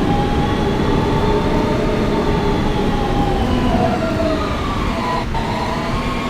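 Siemens AC traction propulsion of an R160B subway car whining in several pitched tones that glide slowly up and down as the train runs. A little after five seconds the tones drop sharply and a new tone starts climbing. All of it sits over a steady rumble of wheels on rail.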